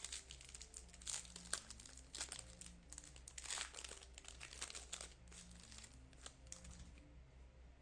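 Foil wrapper of a baseball card pack crinkling and tearing as it is opened, in a string of scratchy rustles for about five seconds that die down near the end.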